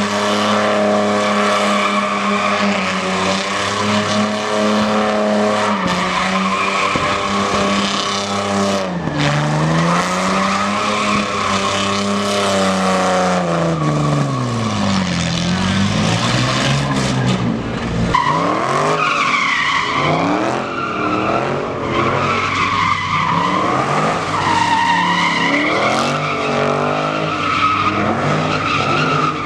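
Car engine held at high revs during a burnout, its pitch sagging and recovering several times, with tires squealing against the pavement. About two-thirds of the way through the sound changes abruptly to a wavering, higher tire squeal over the engine.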